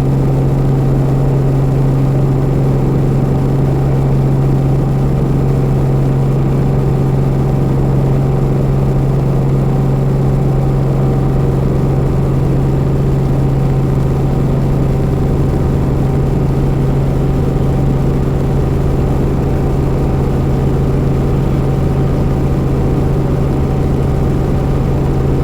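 Robinson R44 helicopter running at a steady speed: a loud, constant low drone with a strong steady hum that holds one pitch throughout.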